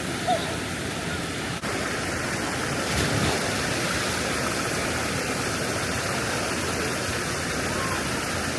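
Steady rush of falling water from a waterfall into a pool.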